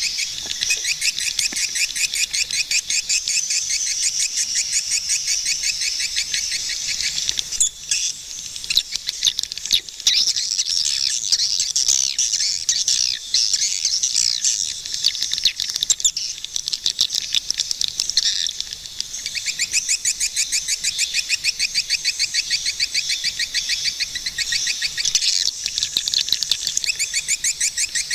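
Swiftlets twittering in a rapid, even run of high chirps, with a denser jumble of overlapping calls through the middle.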